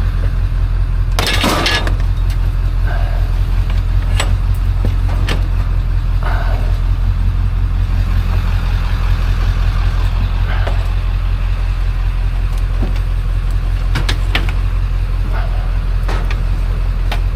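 Motor vehicle engine running with a steady low hum, with a brief loud rattle or scrape about a second in and a few faint knocks.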